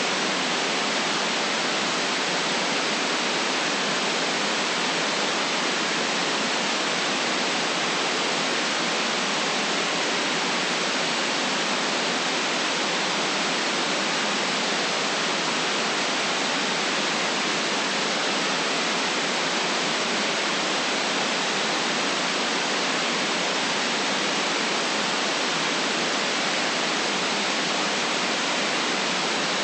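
Steady, unchanging white noise, a hiss with the lowest and highest pitches cut away.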